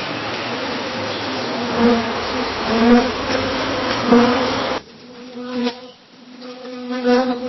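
A bee buzzing in flight, its hum swelling louder three times as it passes close. About five seconds in it cuts suddenly to a quieter buzz, which swells again near the end.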